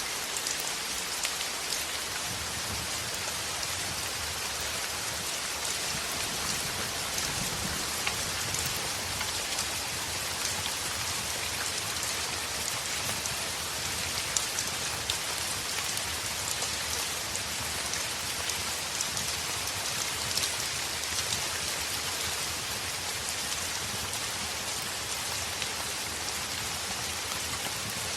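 Heavy rain beating steadily on a window, a constant hiss with scattered sharp drop ticks.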